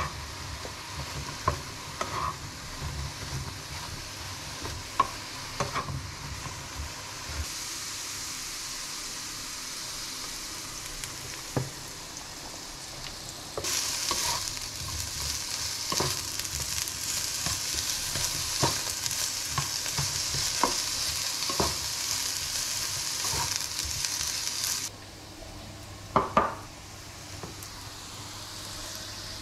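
Diced eggplant frying in a nonstick frying pan, sizzling steadily while a spatula stirs it, with light taps and scrapes of the utensil on the pan. The sizzle grows louder about halfway through. It drops away sharply near the end as the pan is lifted off the hob, followed by a few clinks.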